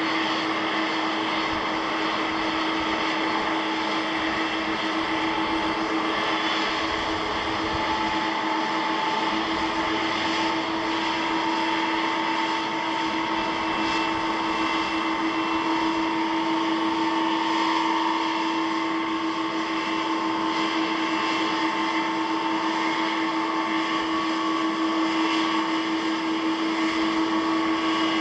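Jet airliner taxiing, its engines running steadily at idle: a constant whine of one low tone and a higher one over a steady rushing noise.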